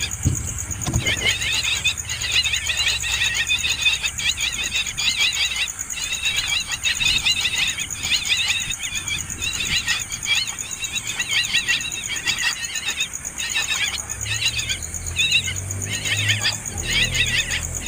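A brood of hungry nestling birds begging for food: a continuous chorus of rapid, high chirping calls, with a few brief pauses.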